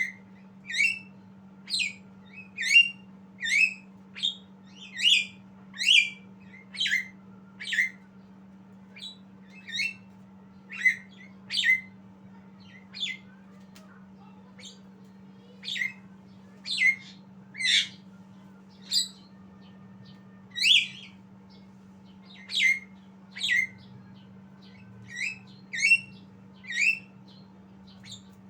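Javan myna calling in short, sharp chirps, about one a second and sometimes two in quick succession, over a steady low hum.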